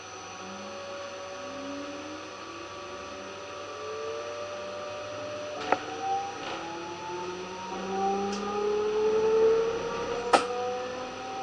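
DB Class 425 electric multiple unit pulling away, its traction converters whining in several tones that climb steadily in pitch as it gathers speed. A few sharp clicks come through partway in, the loudest near the end.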